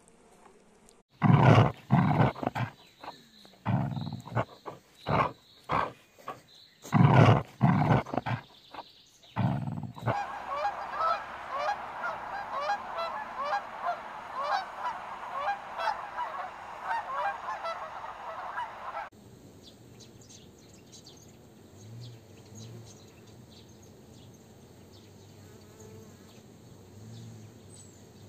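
A rapid series of loud, deep calls from a large animal, then about nine seconds of a flock of Canada geese honking together, then the faint low hum of honeybees at a hive entrance.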